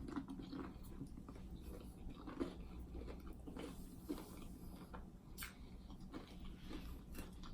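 Faint chewing and mouth sounds of a person eating, with small scattered clicks.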